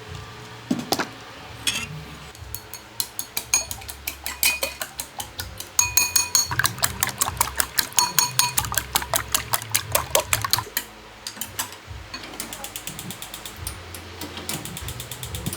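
Kitchenware clattering: a quick run of clicks and clinks, some ringing like metal, at their busiest and loudest through the middle.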